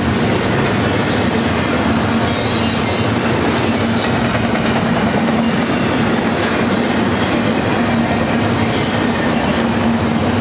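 Freight cars of a BNSF double-stack intermodal train rolling past close by: a loud, steady rumble and clatter of steel wheels on rail. Brief high-pitched wheel squeals come a couple of seconds in and again near the end.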